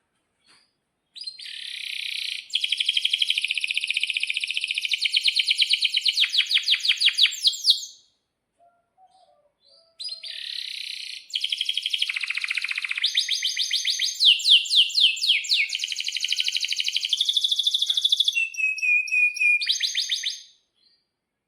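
Domestic canary singing two long song phrases of rapid repeated high notes and trills, with a pause of about two seconds between them.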